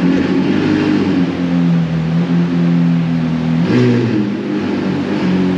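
McLaren 765LT's twin-turbo V8 running at low revs as the car creeps into a parking spot, with a short change in the engine note about four seconds in.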